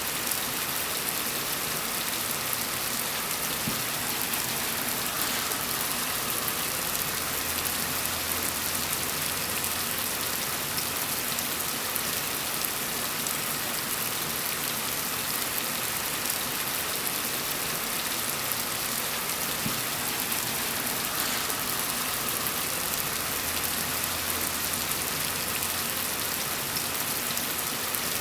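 Steady gentle rain falling on a surface: a dense, even hiss of many drops, with a faint low rumble swelling and fading twice.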